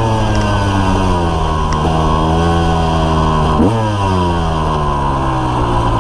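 KTM EXC 300 two-stroke engine through a full FMF exhaust, heard from a camera on the bike. The revs sink slowly, jump sharply with a quick throttle rev about halfway through, sink again, and rev up once more near the end.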